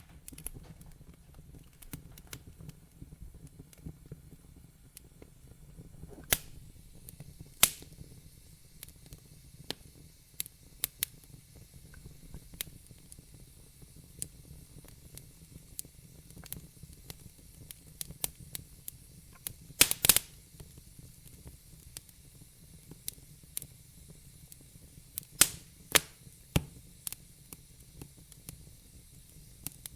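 Wood fire in a fireplace crackling: irregular sharp snaps and pops over a low steady hiss of burning, with a louder cluster of pops about two-thirds of the way through.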